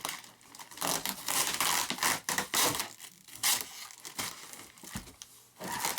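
Packaging crinkling and tearing in irregular bursts as a boxed model-airplane wing is handled and worked free of its wrapping.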